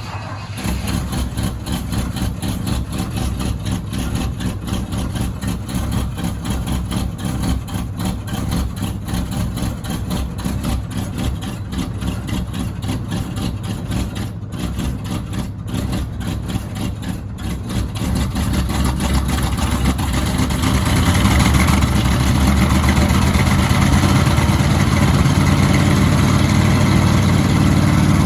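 1977 Ford F-150's 351M V8 engine starting cold and running at a rough cold idle, then getting louder and steadier about twenty seconds in.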